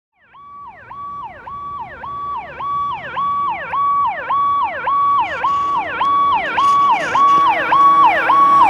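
Fire truck's electronic siren yelping, its pitch sweeping up and down about twice a second, getting steadily louder as the truck approaches. A lower steady tone joins in near the end.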